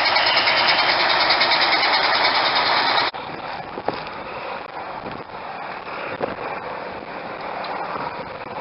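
Diesel locomotive engine running loudly. It cuts off abruptly about three seconds in, leaving a much quieter outdoor background with a few scattered knocks.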